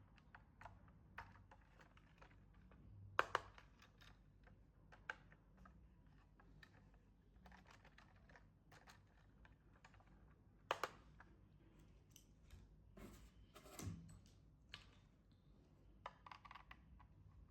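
Faint, irregular small clicks and taps of plastic toy parts and packaging being handled, with two sharper knocks about three and eleven seconds in.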